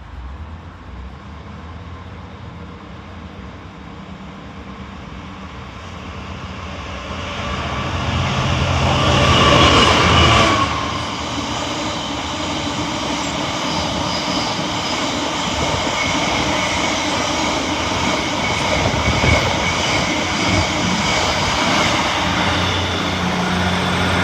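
Freight train passing: it approaches, the locomotive goes by loudest about ten seconds in, and then the wagons roll past in a steady rumble.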